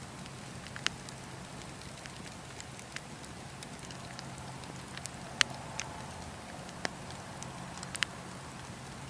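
Wood campfire crackling: scattered sharp pops, about six of them, the loudest about halfway through, over a steady low rumble and hiss of the burning.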